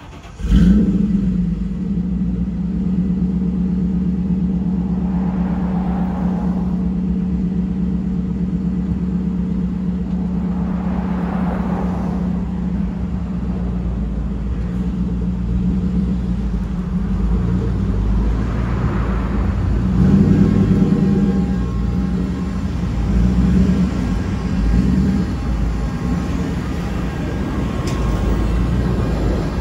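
Roush Mustang's engine catching with a sudden loud start about half a second in, then running steadily. From about twenty seconds in it swells louder a few times as the car is revved and driven off.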